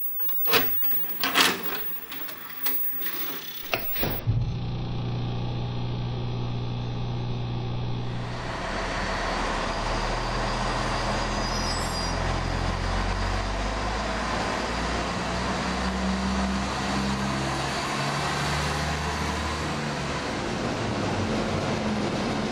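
DB Class 643 'Talent' diesel multiple unit running, its diesel engine note stepping up and down, with the rumble of the train getting louder about eight seconds in. A few sharp knocks come first.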